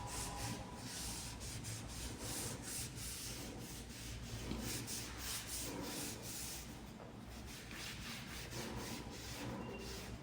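Cloth wiping back and forth over a metal test piece in repeated quick strokes, cleaning its surface before magnetic particle testing.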